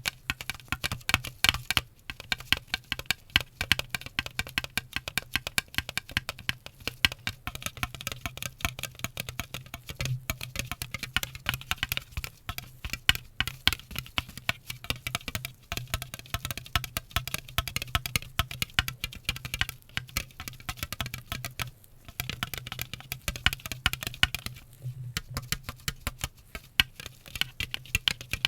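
ASMR trigger sounds: fast, irregular tapping and clicking, many taps a second, over a steady low hum, with brief lulls.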